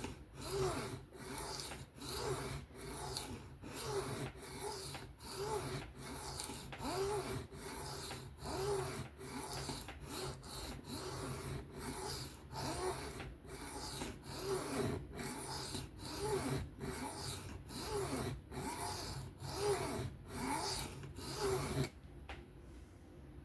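Steel knife blade scraped in repeated freehand strokes across a sharpening stone, about one stroke a second, a rasping scrape that stops near the end.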